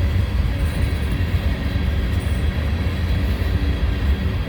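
Freight train rolling past, a steady low rumble of cars and wheels on the rails.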